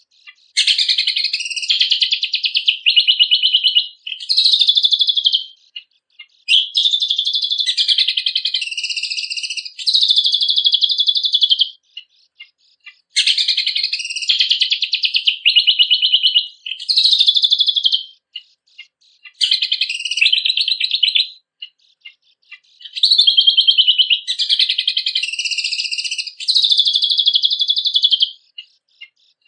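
A cucak kombok (kecial kombok) songbird singing loud, high-pitched phrases of rapid trills and chirps, each lasting one to three seconds with short pauses between.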